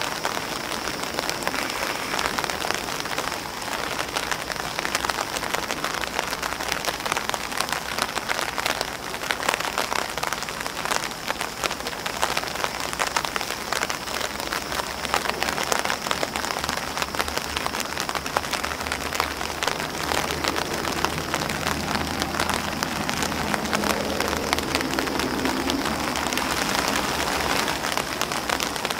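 Steady rain pattering on an umbrella and grass leaves, a dense, continuous hiss of fine drop ticks. A faint low rumble joins in for several seconds after about twenty seconds.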